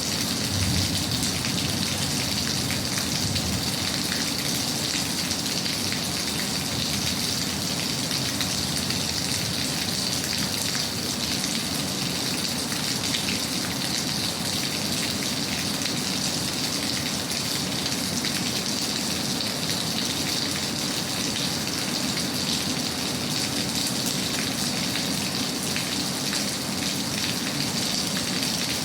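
Steady rain falling, a dense even patter of drops with no breaks.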